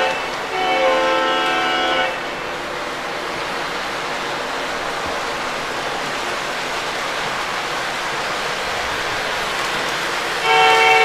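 Lionel Lionmaster New York Central SD90 model diesel's sound system blowing its multi-chime horn through the first two seconds, briefly broken near the start. Then a steady noisy rumble of diesel sound and the train running on the track. The horn sounds again near the end.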